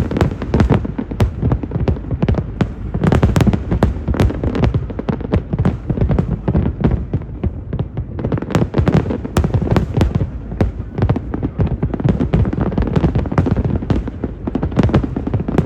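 Aerial fireworks going off in a dense, continuous barrage: many sharp bangs and crackling reports a second, overlapping over a low rumble of booms.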